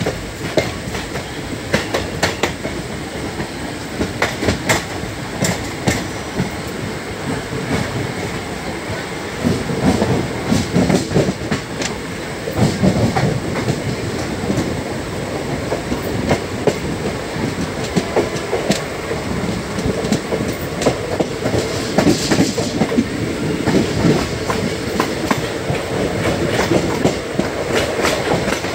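Moving passenger train's wheels rumbling and clicking over rail joints. The clatter grows louder about a third of the way in.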